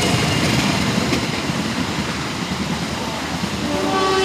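A train passing, a loud steady noise of wheels and cars. Near the end its horn starts, several steady tones sounding together as a chord.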